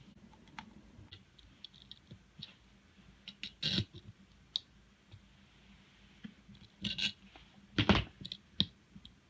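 Parts of a Tokyo Marui Type 89 airsoft electric gun's mechbox being handled during disassembly: scattered light plastic and metal clicks and scrapes, with a few louder clacks, one about a third of the way in and two near the end.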